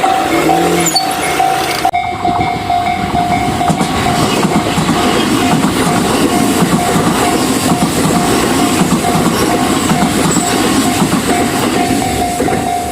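A level crossing warning bell rings in a steady repeating pattern while a train passes through the crossing. About two seconds in, the loud rumble and clatter of the train's wheels on the rails sets in and carries on to the end.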